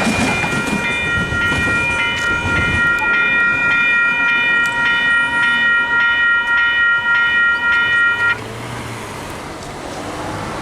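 Western Cullen Hayes electronic crossing bell (E-Bell) ringing on its quiet, slow-ring setting, a bright repeated ding about two and a half times a second that stops abruptly about eight seconds in. Under it, the rumble of a just-passed train fades away in the first few seconds.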